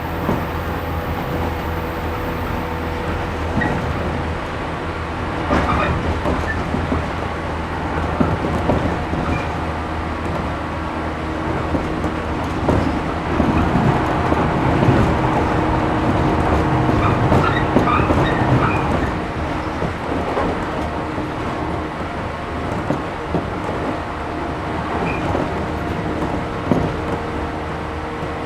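Interior running noise of a JR 113 series 1500-subseries resistance-controlled electric train: a steady low hum with rumbling rail and wheel noise. The noise swells and grows busier for several seconds around the middle, then settles again.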